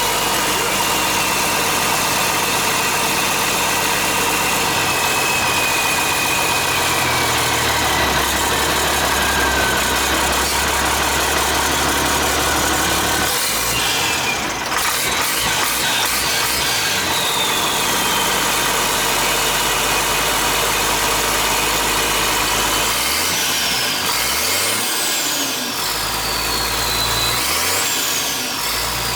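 International DT466 inline-six turbo diesel running on its first start after an in-frame rebuild, its speed rising and falling several times. A high whistle falls in pitch after several of the speed changes.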